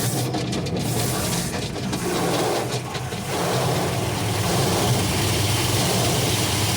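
Automatic car wash machinery heard from inside the car: a steady low hum under a rushing noise. The rush grows louder and fuller about three seconds in.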